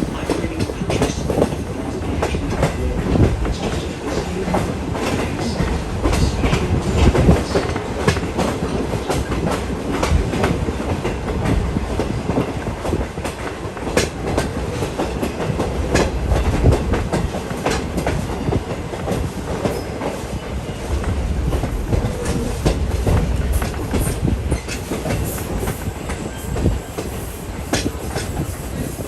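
Riding in a passenger coach of a moving train: a steady rumble of the car, with the wheels clicking and clacking over the rail joints.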